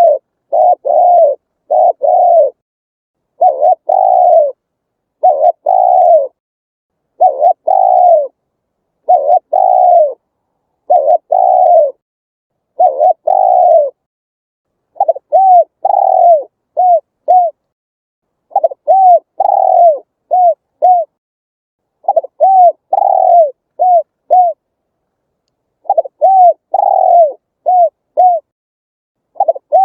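Spotted dove cooing in repeated phrases of low, arched coos with short pauses between them. About halfway through, the phrases shift to a short note, a long coo and two quick short notes.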